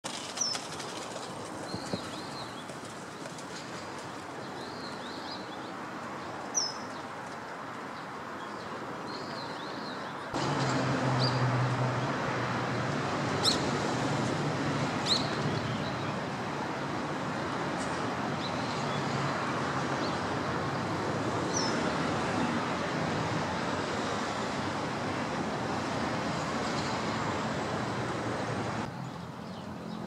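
Steady outdoor hiss with a few short, high-pitched bird calls scattered through it. The hiss grows louder about ten seconds in, with a low hum beneath it for a while, and two sharp clicks come in the middle.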